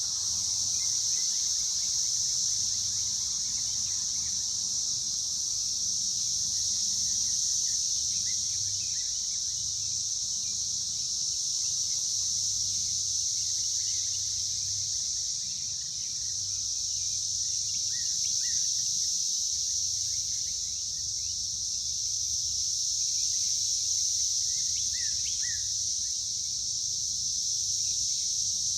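A chorus of cicadas making a continuous, high-pitched buzzing drone that slowly swells and eases. Faint short bird chirps come through now and then, most clearly in the second half.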